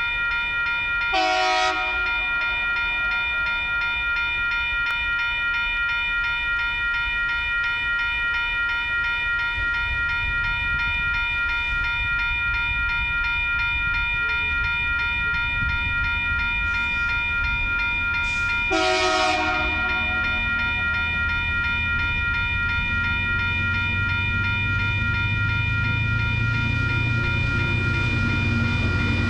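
Level crossing bells ringing steadily, with two short blasts of a TasRail diesel locomotive's horn, one about a second in and one about 19 seconds in. Near the end a low diesel rumble builds as the train draws closer to the crossing.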